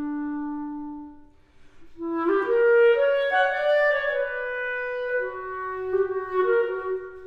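Solo clarinet: a held low note fades away a little over a second in, and after a short pause a new melodic phrase begins, the notes moving up and down in pitch.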